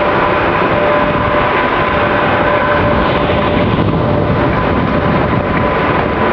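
Class 86 electric locomotive 86259 running light engine: a loud, steady mechanical noise with two steady tones near 1 kHz and 600 Hz, the lower one coming and going.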